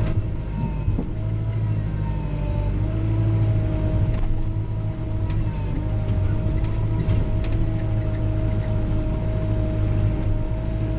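Kubota L3940 compact tractor's diesel engine running steadily, heard from inside the cab. Its pitch dips briefly about a second in, then picks back up, with a few light clicks and knocks over it.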